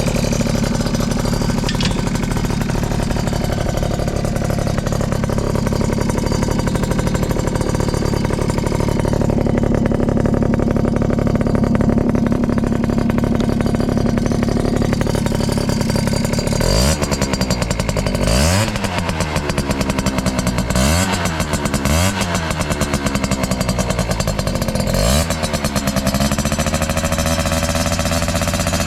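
Yamaha Champ RS 50cc two-stroke scooter engine with an expansion-chamber exhaust, idling steadily, then revved in several quick throttle blips in the second half that each fall back to idle. The seller describes it as running with no abnormal noise.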